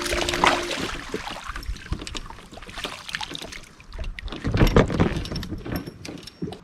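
Irregular knocks and clatter of gear being handled on a kayak, loudest cluster about four and a half seconds in. The tail of a music track cuts off within the first second.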